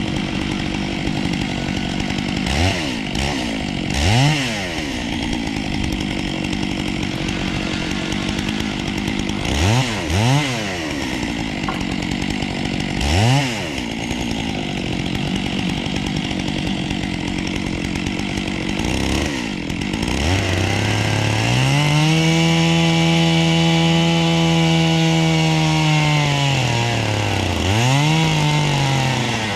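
Two-stroke chainsaw idling with several quick throttle blips, then run at high revs for several seconds starting about two-thirds of the way through. Near the end the revs dip and climb again.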